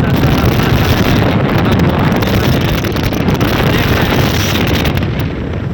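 Strong wind buffeting the microphone: a loud, steady rush heaviest in the low end.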